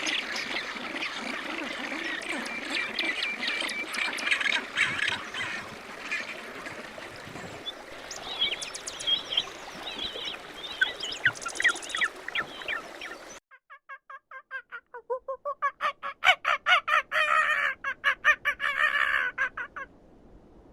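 Farmyard fowl calling: a flock's many overlapping calls, then, after a sudden cut about thirteen seconds in, a fast run of repeated calls, several a second.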